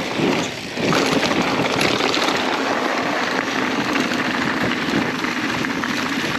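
Steady rushing of wind over the microphone mixed with mountain bike tyres rolling over a dirt trail at speed, with a brief dip about half a second in.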